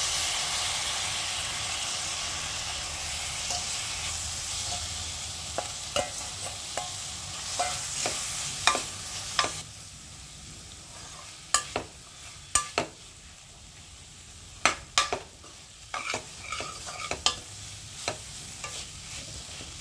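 Chopped tomatoes dropped into hot oil with frying onions and spices: a loud sizzle that fades over the first nine seconds or so and carries on more quietly. A steel spoon stirs the mix, scraping and clinking sharply against the pan again and again through the second half.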